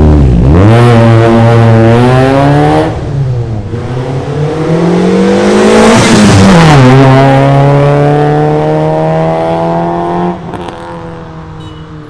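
Proton Wira's 4G93 four-cylinder engine, heard through a new full stainless-steel exhaust, accelerating hard. The pitch climbs, drops back and climbs again twice, as at gear changes, then falls away about ten seconds in.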